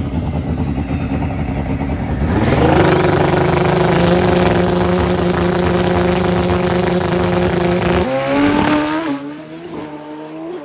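Pro Extreme drag bike engine at full throttle on a pass. It rises sharply about two seconds in and holds a loud, steady high note for about five seconds, then breaks off and drops away to a quieter note as the throttle is closed near the end.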